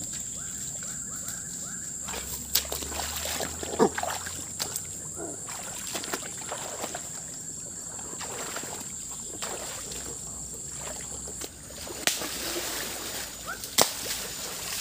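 Water splashing and sloshing in irregular bursts as a fishing net is worked through the water, over a steady high-pitched whine.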